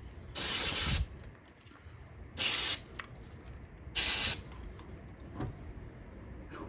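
Aerosol can of electronics cleaner sprayed in three short hissing bursts, the first lasting about half a second and the other two shorter.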